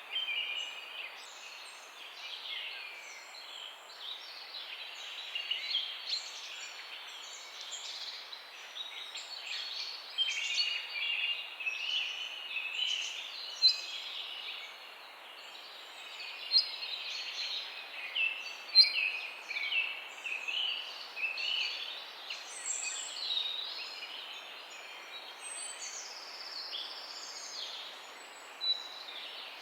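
Several small birds chirping and singing over one another, many short calls and trills, over a soft steady hiss of outdoor background noise.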